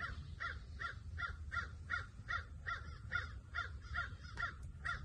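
A bird calling in a long, even series of short calls, about three a second.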